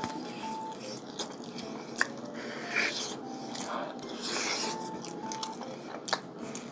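Biting into and chewing fried chicken close to the microphone, with scattered crunchy clicks.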